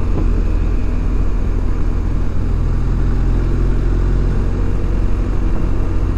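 ADV motorcycle riding steadily along the road, its engine and the rush of travel making a constant low rumble.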